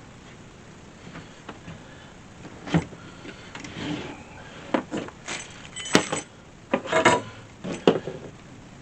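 Hard objects being handled: a string of sharp knocks, clicks and clatters that starts a few seconds in and comes thickest in the second half, with no steady machine sound beneath.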